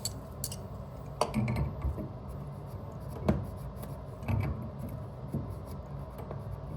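A few sharp metallic clicks and small scrapes from a hand tool gripping and working a tight compression ferrule along a pipe, with a steady low background hum.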